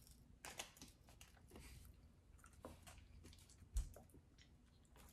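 Faint chewing of a soft, chewy fruit candy stick, with scattered soft clicks and one low thump a little under four seconds in.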